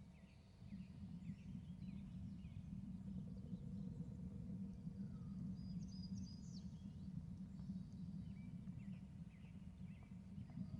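Steady low outdoor rumble with faint, scattered bird chirps and short whistles, thickest at the start and again near the end.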